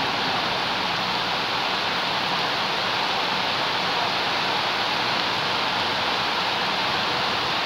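Rain falling steadily on garden plants and wet ground, an even, unbroken hiss.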